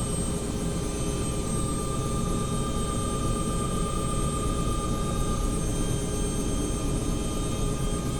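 Helicopter turbine and rotor running steadily, a dense low rumble with a constant high turbine whine over it.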